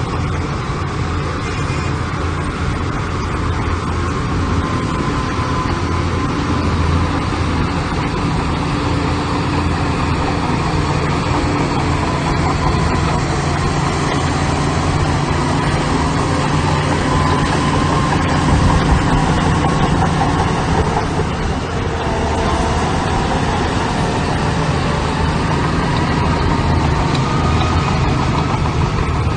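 Heavy construction machine's diesel engine running steadily, its level swelling and easing a little a few times.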